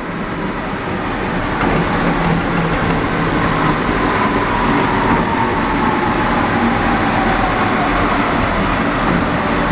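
Rubber-tyred Alstom NS-74 metro train running, a loud steady rumble with a whine that slowly falls in pitch as the train slows for a station.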